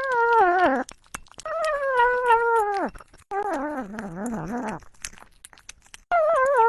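A pet's long, wavering wailing cries, four in a row, each sliding down in pitch at its end, with small clicks in the gaps between them.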